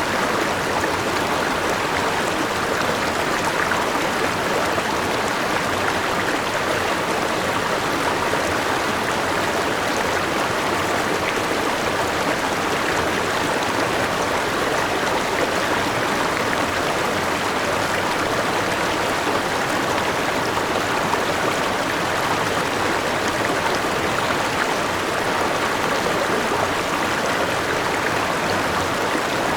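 River water rushing steadily over rocks in a forest stream, a constant even flow with no breaks.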